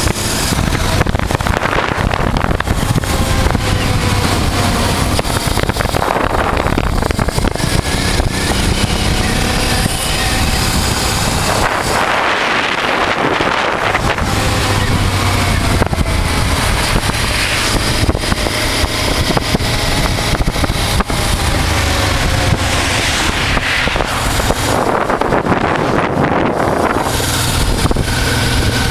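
1988 Honda Transalp's 600 cc V-twin engine running under way, its pitch rising and falling as the bike speeds up and changes gear. Wind rushes over the microphone throughout, swelling at times.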